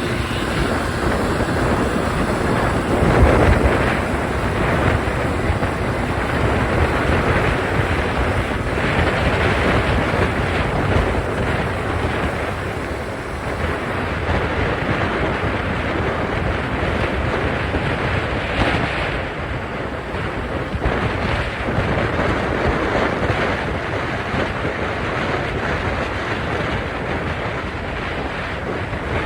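Heavy wind rushing over the microphone of a small two-stroke scooter held at full throttle near its top speed; the engine's drone is buried under the wind.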